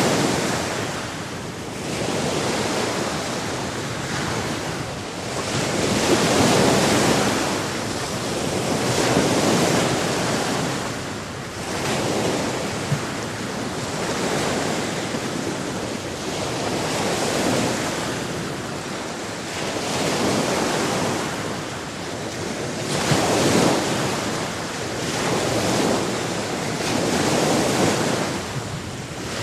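Sea waves on a shore, rushing in and washing back in swells every few seconds.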